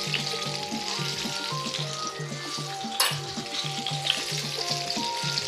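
Coated chicken drumstick deep-frying in hot oil: a steady bubbling sizzle, with one sharp click about three seconds in.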